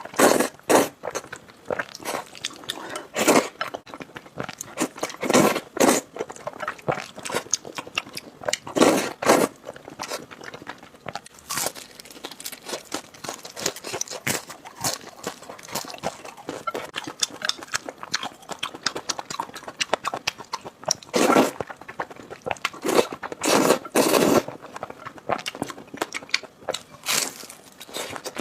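Close-miked eating of noodles: chewing with many quick wet clicks, and louder bursts every few seconds.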